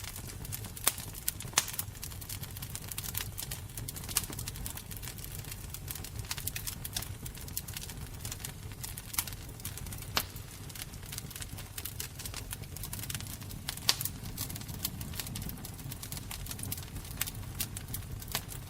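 Fire crackling: irregular sharp pops and snaps over a steady low rumble of flames, with a few louder pops, one about a second and a half in and another near fourteen seconds.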